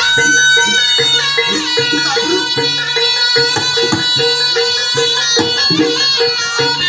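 Live Javanese barongan accompaniment: a reedy shawm (slompret) plays a wavering melody over hand drums and gamelan percussion.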